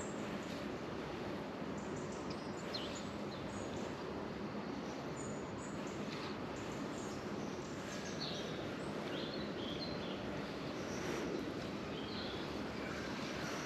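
Steady outdoor background noise with small birds chirping here and there: short, high calls scattered through it.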